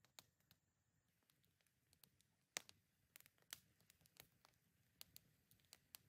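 Small wood campfire crackling softly, with irregular sharp pops; the loudest snap about two and a half seconds in, and another about a second later.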